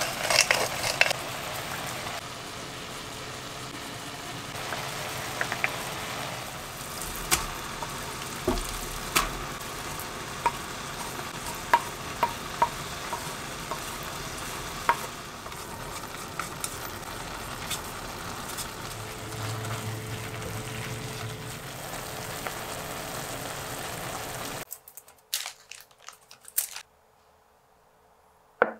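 Cherry tomato sauce sizzling in a frying pan while it is stirred with a wooden spatula, with sharp taps of the spatula against the pan and the scrape of ingredients being pushed in. The sizzle stops abruptly about 25 seconds in, leaving a few soft clicks.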